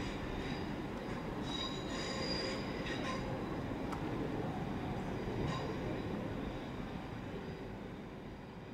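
A Class 444 electric multiple unit running slowly over curved pointwork with a steady rumble. Its wheels give high-pitched squeals in bursts during the first three seconds or so. The rumble then slowly fades.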